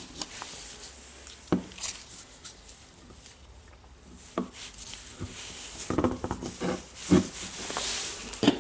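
Small metal clicks and taps from fitting a spring ring onto a Makita DHR202 rotary hammer's tool holder, with light handling noise; the clicks come more often in the last few seconds.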